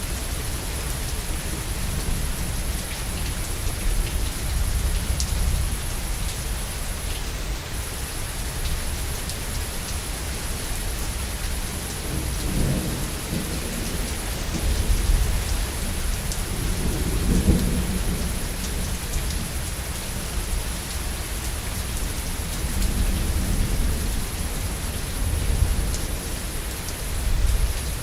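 Steady heavy rain falling, with rolling thunder rumbling underneath that swells twice in the middle.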